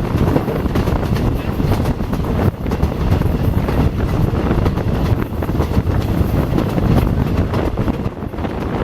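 Steady rumble of a moving passenger train heard from on board, with wind buffeting the microphone.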